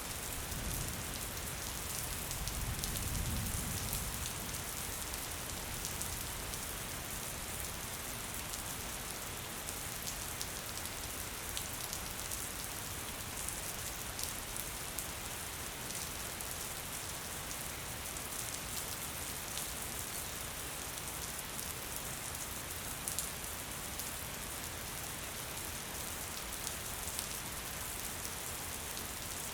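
Gentle rain falling steadily: a dense, even hiss with scattered sharper drop ticks. A low rumble swells about a second in and fades out by about four seconds.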